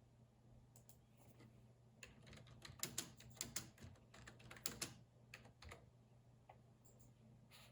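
Computer keyboard typing: a quick run of keystrokes from about two to five seconds in, with a few single key presses before and after, over a faint steady low hum.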